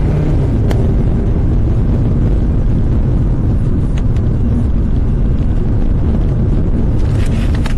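Steady low rumble of a moving car's engine and tyres heard from inside the cabin, with a couple of faint ticks.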